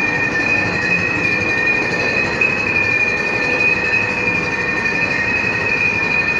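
Steady machinery noise with a constant high-pitched whine of two tones, unchanged throughout.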